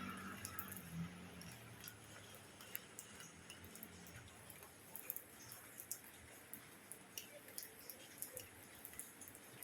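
Faint, irregular drips and ticks of rain falling, a few each second. A passing vehicle's hum dies away in the first second or so.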